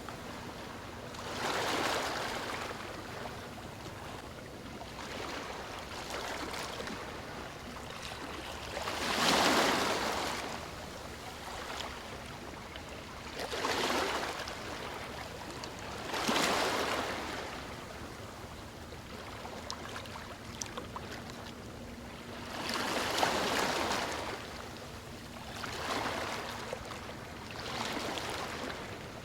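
Gentle ocean waves lapping on a shore: a soft wash of water that swells and fades about seven times, every few seconds. The loudest wave comes about nine seconds in.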